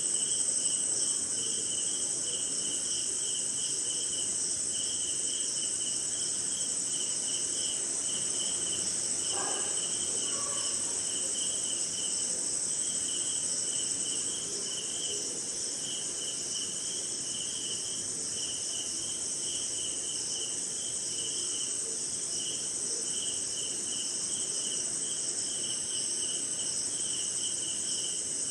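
Night chorus of crickets and other insects: a steady high-pitched trill with a cricket's quick pulsed chirping running over it, and a short lower call about ten seconds in.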